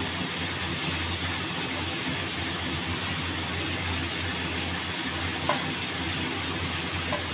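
Chicken and vegetables frying in hot oil in a metal pan: a steady sizzle, with two light clicks near the end as green beans are dropped in.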